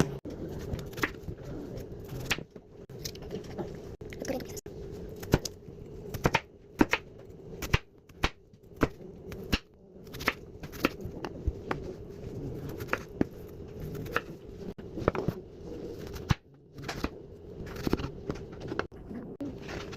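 Knife chopping on a cutting board: sharp, irregular knocks, roughly one or two a second, over a steady low hum.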